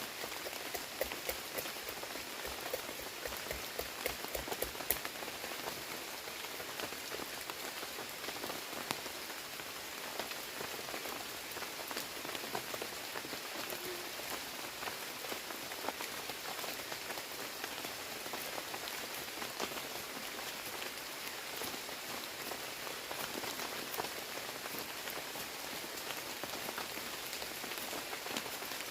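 Heavy rain falling steadily, a dense hiss of countless drops. For the first five seconds or so, sharper individual drop hits stand out above it.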